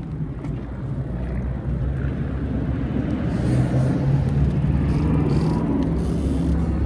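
Motor vehicle engine running close by over street traffic: a steady low rumble and hum that slowly grows louder.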